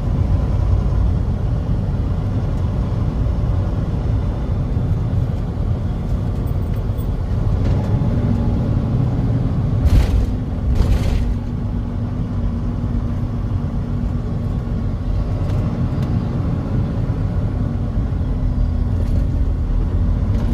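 Truck running, with a steady low rumble and a steady hum, and two brief sharp sounds about halfway through.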